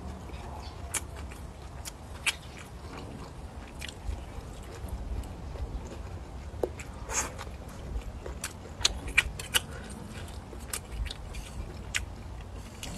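Close-up chewing and biting of rice and cured sausage, with many short wet mouth clicks and smacks scattered irregularly throughout, over a steady low rumble.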